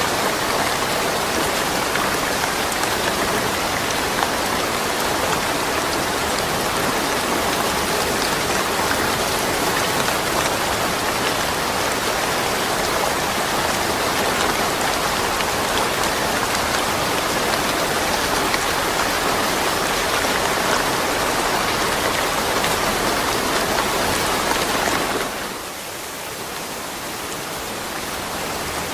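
Steady, dense rain falling and pattering on surfaces, with no thunder. Near the end it suddenly turns quieter, then slowly builds back up.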